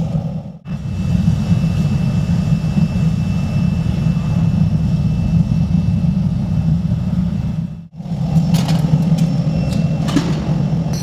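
Factory machinery running with a steady low drone and a faint high steady tone. The drone drops out briefly twice, once just after the start and once about eight seconds in.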